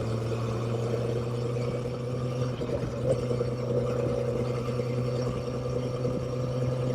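Motorcycle engine running at a steady pitch, without revving up or down.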